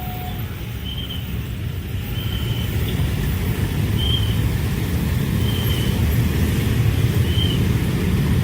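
Low, steady rumble of a train passing a level crossing, growing slowly louder, with short high blips repeating about every second and a half. The crossing's two-tone warning bell falls silent right at the start.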